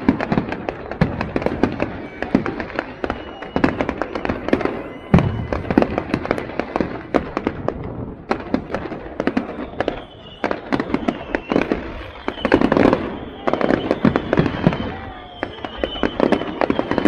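Fireworks display: continuous rapid crackling and popping from many bursts, packed into louder dense volleys about five seconds in and again around twelve to fourteen seconds.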